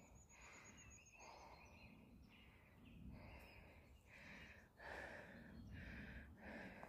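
Near silence: a hiker's faint, steady breathing, in long even breaths, with a brief high bird trill in the first second.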